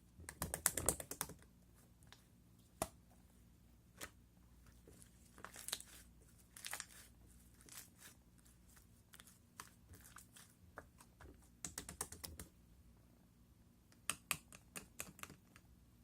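Slime being pressed and squeezed by hand, giving clusters of small sticky clicks and pops in several bursts.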